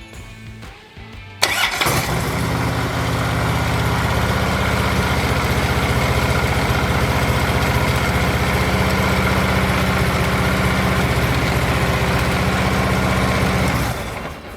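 Harley-Davidson Ultra Limited V-twin engine starting cleanly on its new starter: it catches at once about a second and a half in and runs at a steady idle, then is shut off near the end. The quick, clean start shows the starter fault is fixed.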